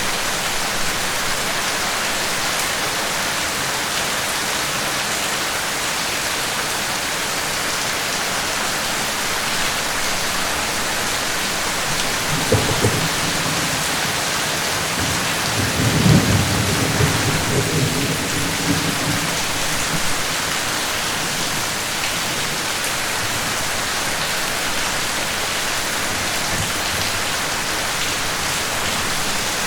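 Steady rain hissing on a surface, with thunder: a short low rumble about twelve seconds in, then a louder, longer rumble a few seconds later that fades out.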